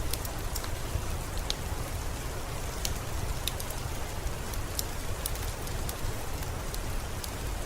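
Steady rain with a low rumble beneath it, dotted with scattered sharp crackles from a wood fire in a fireplace.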